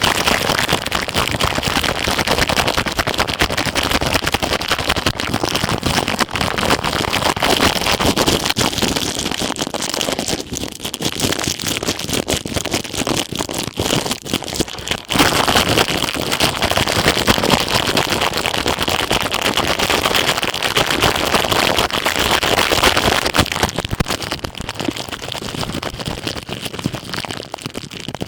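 Ear pick scraping and rubbing over a plastic ear cap on a microphone's ear, making a dense, close-up crackling and crinkling. It softens for a few seconds midway, then comes back louder.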